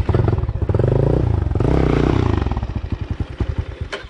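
Dirt bike engine revved twice, its pitch rising and falling each time, then dropping back to a low, pulsing putter near idle.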